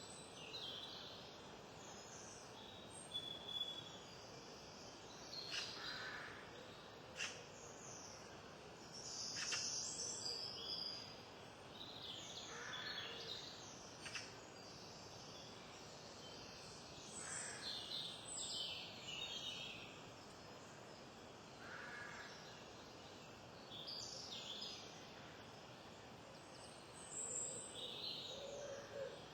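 Small wild birds chirping and singing in short, scattered phrases over a steady background hiss.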